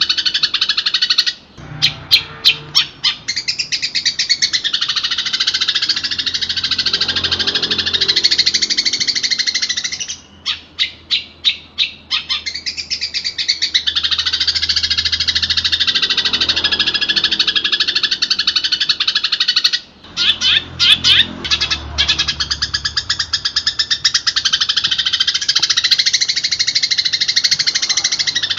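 Long-tailed shrike (cendet) singing nonstop, a dense, high, varied song of mimicked phrases. Three times it breaks into a run of quick repeated notes.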